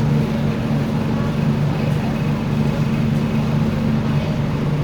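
MTR Tung Chung line K-stock train running between stations, heard on board: a steady rumble of wheels on track with a low, even hum from the traction motors.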